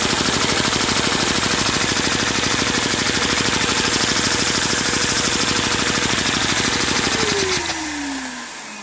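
Lego vacuum engine with cam-driven overhead poppet valves and a 4x6-stud piston running fast, a rapid, even clatter of piston and valves, over the steady whine of the vacuum cleaner that drives it. After about seven seconds the whine falls in pitch and the clatter fades as the suction is shut off and the engine winds down.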